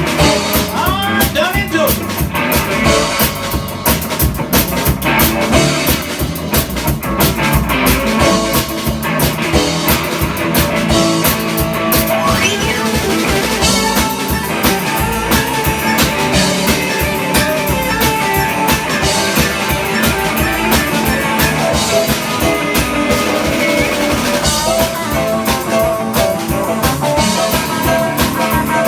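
Live rock band playing an instrumental break with electric guitar over a steady drum kit beat.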